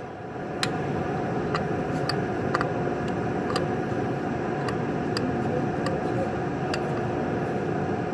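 Steady workshop background hum with irregular sharp light clicks, roughly one every second or so.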